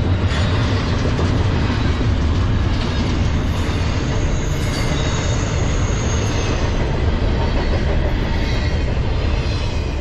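Double-stack intermodal freight cars rolling past: a steady, loud rumble and clatter of steel wheels on the rails, with a faint, thin high wheel squeal for a few seconds around the middle.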